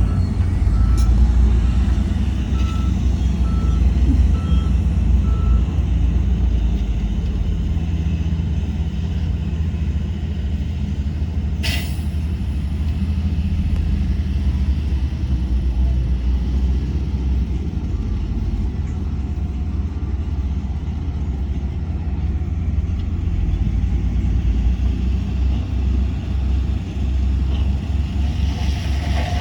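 Heavy diesel earthmoving machinery running steadily, with a reversing alarm beeping evenly, about one and a half beeps a second, for the first five or six seconds. About twelve seconds in there is one short, sharp hiss.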